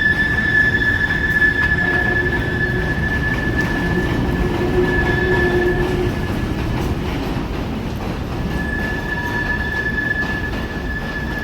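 Freight train rolling with a steady high-pitched wheel squeal over a low rumble; the squeal drops out for a couple of seconds past the middle and then comes back.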